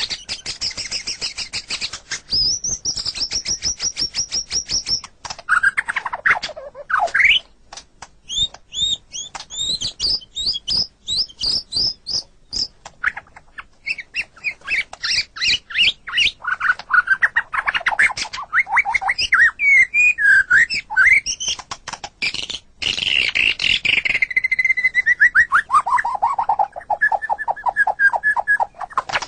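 White-rumped shama (murai batu) singing a long, varied song of clear whistles, sweeping glides and rapid trills of fast repeated notes, broken by short pauses. Near the end there is a run of quick notes falling in pitch.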